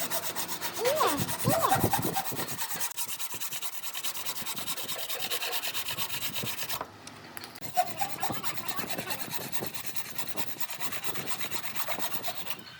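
Wood being sanded or rasped by hand in rapid, even strokes, with a brief pause about seven seconds in.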